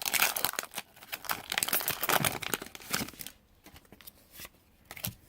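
Foil wrapper of a Pokémon booster pack crinkling and tearing open by hand, a dense crackle for about three seconds, then only a few faint rustles.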